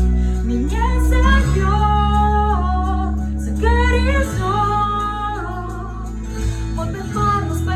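Pop song with a female voice holding long, gliding notes over a backing track with a steady bass.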